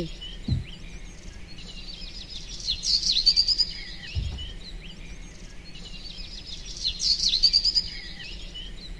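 Birds chirping, the same high, quick phrase coming back about every four seconds, over a faint steady hiss. Two soft low thuds come about half a second and four seconds in.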